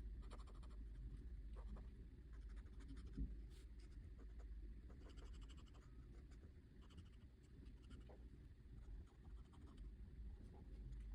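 Faint scratching strokes of a pen or marker on paper, in short irregular runs.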